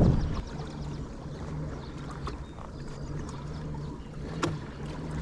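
Low steady mechanical hum with light clicking from gear on a fishing kayak, with a sharp single click about four and a half seconds in. A brief low rush of wind on the microphone at the very start.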